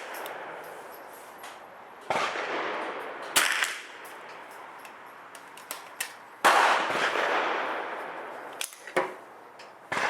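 Several single gunshots from a .22 rimfire rifle, spaced a second or more apart, each sharp crack followed by a long echoing decay.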